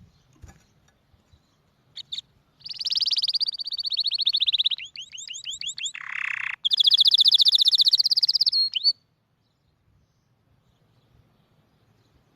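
Canary singing: a song of rapid high trills, phrase after phrase, with a lower buzzy phrase in the middle. It starts about two seconds in and stops after about seven seconds.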